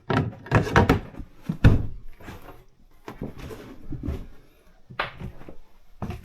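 Wooden cabinet doors and access panels in a boat's cabin being opened, moved and shut: a quick run of knocks and bangs in the first two seconds, then a few lighter knocks.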